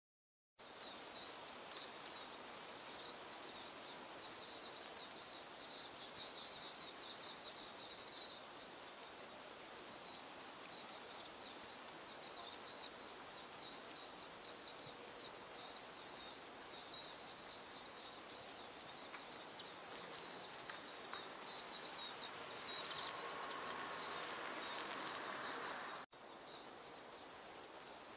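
High, thin, rapid chattering calls of small birds, coming in long runs over a steady outdoor hiss, with a brief cut in the sound about 26 seconds in.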